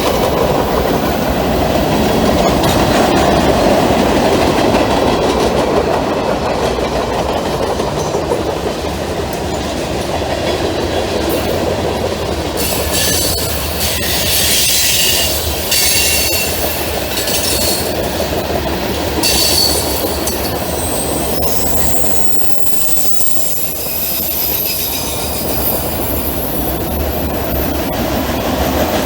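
Fast freight train rolling past on a curved temporary shoo fly track, its cars making a loud steady rumble, with high wheel squeal coming and going through the middle.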